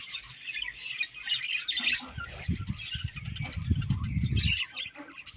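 A colony of budgerigars chirping and warbling all together, steady and dense. From about two seconds in to about four and a half seconds, a loud low rumble of quick thumps sits under the chirping.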